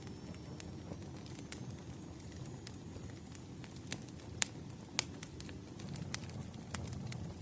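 Wood campfire burning: scattered sharp crackles and pops over a low, steady rumble of flames. The two loudest pops come about four and a half and five seconds in.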